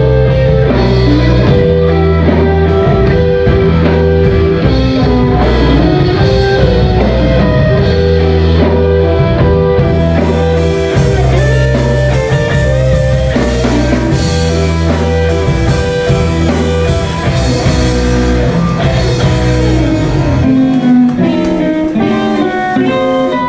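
Live rock band playing an instrumental passage with electric guitar, bass and drums, the bass dropping out for a moment near the end before coming back in.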